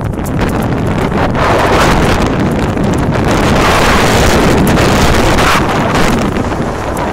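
Strong wind buffeting the microphone at sea, a loud rushing noise that swells in gusts through the middle.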